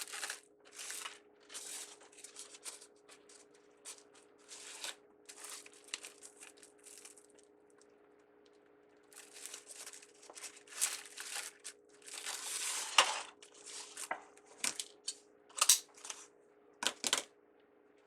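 Ribbon crinkling and rustling in the hands as it is folded into bow loops, in irregular bursts with a pause partway through. A few sharper clicks come near the end.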